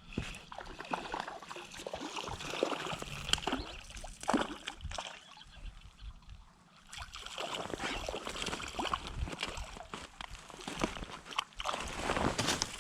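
Water splashing and sloshing in a creek, with scattered short knocks and clicks, while a hooked trout is played and brought in on light spinning tackle. There is a quieter lull partway through.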